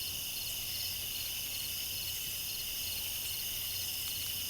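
Night insect chorus of crickets, a steady high trilling with short chirps repeating about twice a second over it, and a faint low hum underneath.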